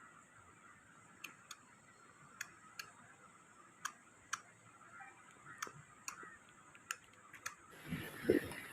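Faint, irregular light clicks and taps of small hard objects being handled, about two a second at most, with a louder knock and some rustling near the end.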